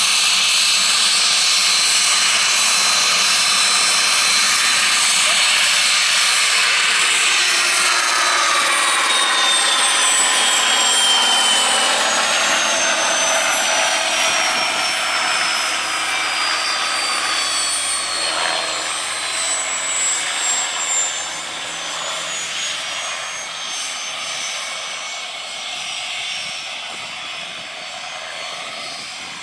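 Cessna Citation CJ1's Williams FJ44 turbofan engines shutting down: a loud, steady jet whine gives way about eight seconds in to several whining tones that glide downward as the turbines spool down, the sound growing steadily quieter through the second half.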